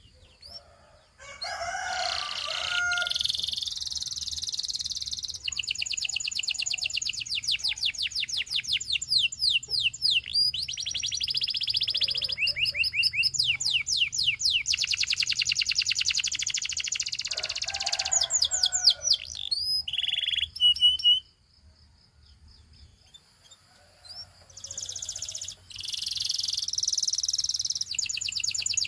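Domestic canary singing a long song of rapid, high trills and rolls of repeated notes. It breaks off for about three seconds and then starts again.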